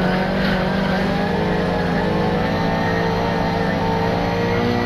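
Volvo 240 rally car's engine heard from inside the cabin, pulling hard at steady high revs along a straight, its pitch held nearly level.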